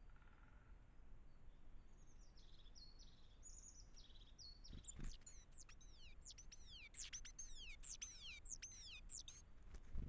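Small forest songbirds calling faintly: a run of short high steady notes, then about four seconds of quick, high notes that each sweep downward. A soft knock about five seconds in, and another near the end.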